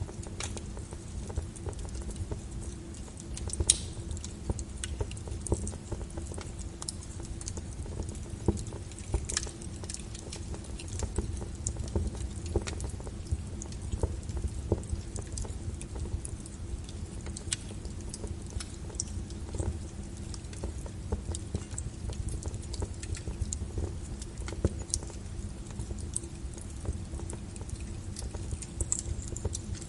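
Wood logs burning in a fireplace, crackling with frequent irregular sharp pops over a low steady rumble of the fire; one pop a few seconds in is louder than the rest.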